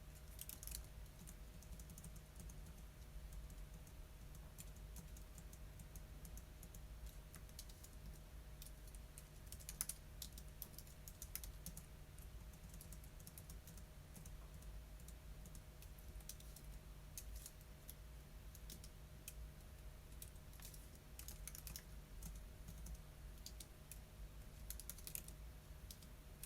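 Typing on a computer keyboard: quiet, scattered runs of key clicks with pauses between them, over a faint steady hum.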